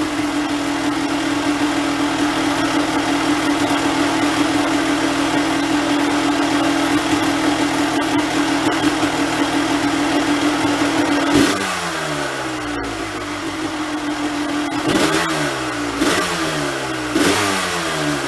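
Honda CR250 two-stroke single-cylinder engine held at steady revs, then dropping back about eleven seconds in. It is then blipped about four times, the revs rising and falling away each time.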